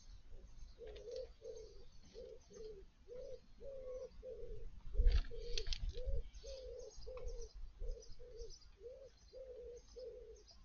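A pigeon-family bird cooing, a steady run of short low coos at about two a second. A few sharp knocks and a low rumble come about halfway through.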